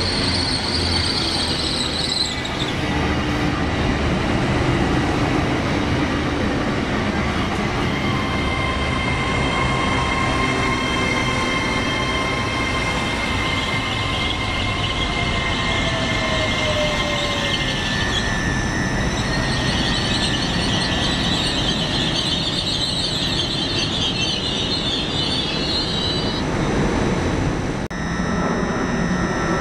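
A train running through the station, with a steady rumble, whining tones and high-pitched wheel squeal that comes and goes. The sound changes abruptly near the end.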